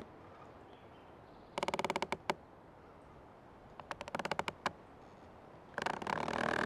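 An old tree creaking: three drawn-out creaks, each a fast run of little clicks, about two seconds apart, the last one the longest and loudest.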